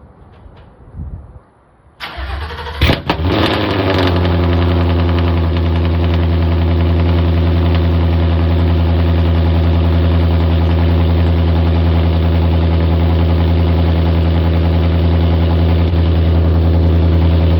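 Cold start of a car engine fitted with headers and open exhaust dumps. It cranks about two seconds in, catches with a sharp flare of revs, then settles into a loud, steady idle.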